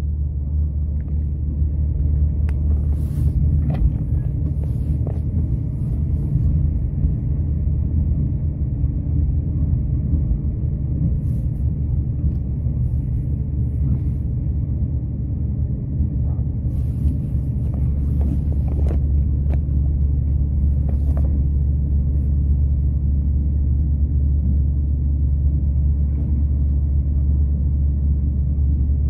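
Steady low rumble of a moving Irish Rail train, with a few short clicks and knocks scattered through it.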